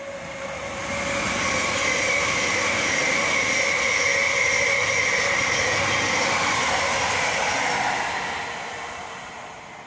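A long Thameslink Class 700 electric multiple unit passing through the station. The rolling noise swells over the first second or two, holds steady with a high steady tone running through it, and fades away near the end as the train recedes.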